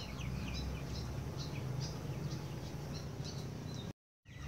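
Small birds chirping: many short, high, quick calls scattered through, over a steady low background rumble. The sound drops out completely for a moment near the end.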